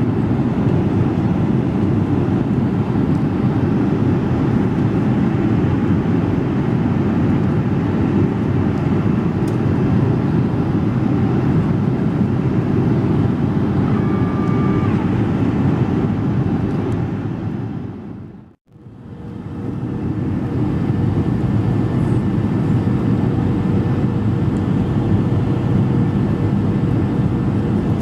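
Steady cabin noise inside a Boeing 737-300 on approach: the low rumble of engines and airflow. About two-thirds of the way through it fades out to silence for a moment and fades back in.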